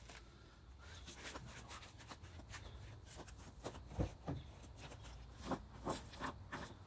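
Scattered light clicks and knocks of tools and parts being handled during car repair work, with one louder knock about four seconds in.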